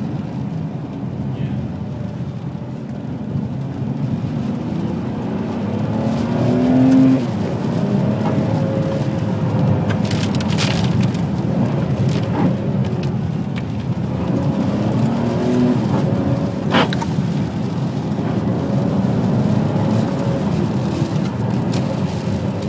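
Ferrari 599 GTB Fiorano's Enzo-derived V12 engine running as the car drives along. The revs climb about six seconds in and peak a second later, then the engine runs on steadily, with a few short sharp knocks later on.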